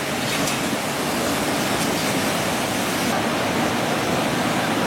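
Steady rushing of fast-flowing floodwater, an even roar with no breaks.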